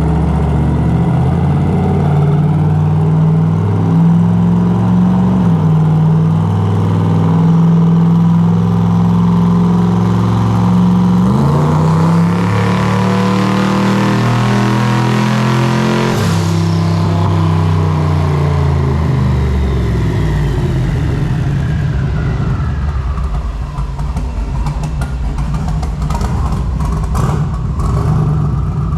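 Twin-turbo 5.3 L LS V8 running under load on a dyno. About 11 seconds in the revs step up and climb in a hard pull with a rising turbo hiss, then the throttle closes around 16 seconds and the revs and turbo whine fall away to a lower steady run.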